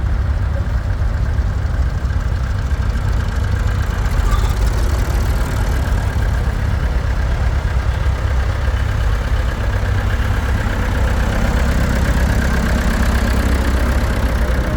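Tractor engines running steadily, a continuous low-pitched engine sound.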